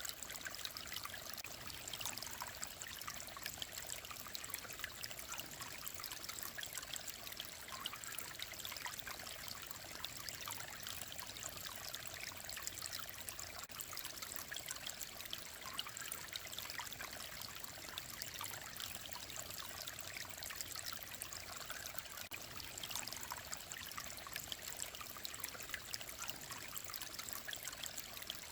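Clear mountain stream running and trickling over stones, a steady bright babble of water.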